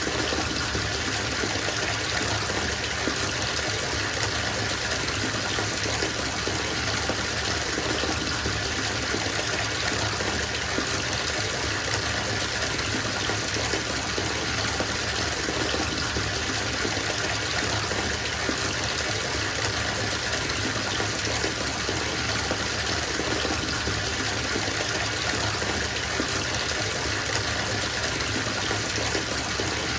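Bathtub filling from the tap: a steady, even gush of water pouring into the tub.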